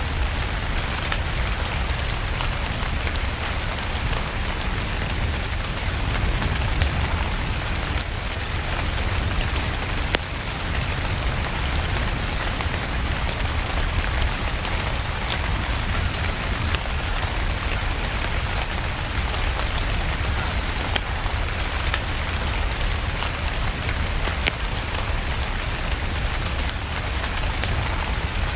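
Steady rain with a deep rumble underneath and scattered sharp crackles, as from a wood fire burning in a fireplace.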